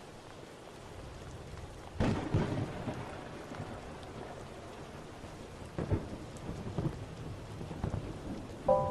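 Steady rain with rumbles of thunder, a loud clap about two seconds in and another near six seconds, the rain slowly growing louder. A chiming melody enters right at the end.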